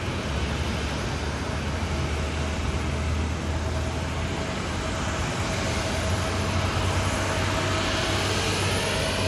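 Jet airliner engines heard at a distance: a steady rumble with a whine that strengthens from about halfway, growing louder and sweeping near the end as the aircraft comes closer.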